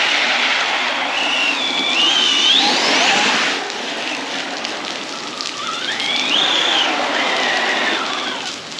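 Arrma Big Rock 6S RC truck's brushless electric motor whining, its pitch rising and falling repeatedly with the throttle, over a steady hiss of heavy rain and water spray.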